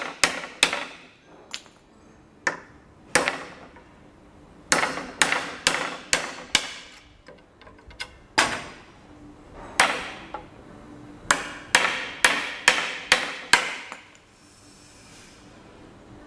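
An old chisel being struck repeatedly to break sawn-out sections away from a wooden boat plank: sharp blows in runs of several, about two to three a second, with short pauses between runs.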